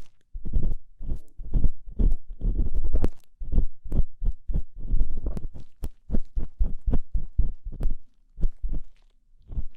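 Ear-cleaning tool scraping and rubbing close against a microphone's ear, for ASMR: a run of short, low, scratchy strokes, two to three a second, with a brief pause near the end before they start again.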